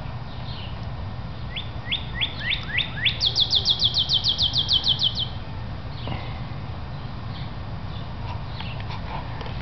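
A songbird singing one phrase: about six rising whistled notes that come faster and faster, then a high fast trill of some fifteen short notes lasting about two seconds, with a few faint chirps afterwards. A steady low rumble runs underneath.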